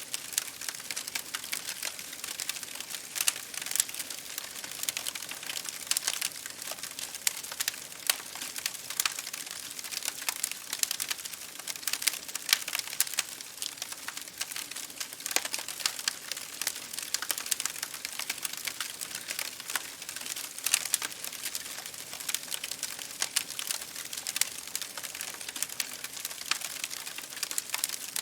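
Campfire burning, a steady bed of dense, irregular crackles and small sharp pops, with no flames roaring.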